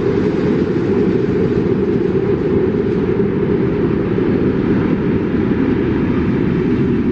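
Freight train hauled by an SU46 diesel-electric locomotive approaching: a steady, loud low rumble with no distinct beats or tones.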